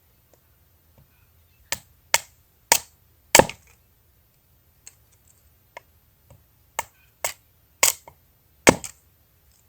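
Wood being chopped into kindling: eight sharp chops in two groups of four, a few seconds apart, the loudest about three and a half seconds in.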